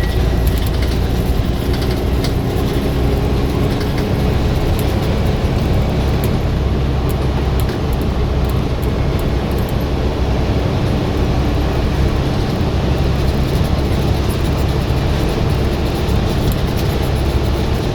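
Scania bus engine running hard under load, a steady low drone with road noise over it.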